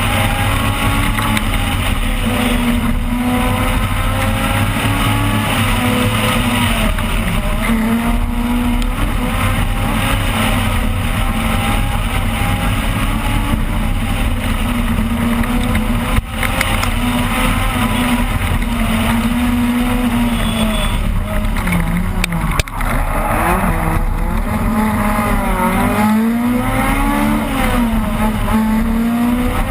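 Opel Kadett rally car engine heard from inside the cockpit, running hard at high revs. After about 20 seconds the pitch drops and climbs again several times through braking and gear changes. Two sharp knocks, each with a brief drop in the engine note, come about halfway and about three-quarters of the way in.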